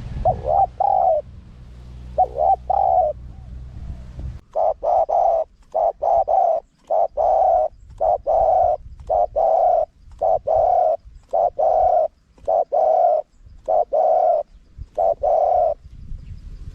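Spotted dove cooing. Two short coos come first, then from about four seconds in a fast, even run of about a dozen short coo notes, which stops shortly before the end.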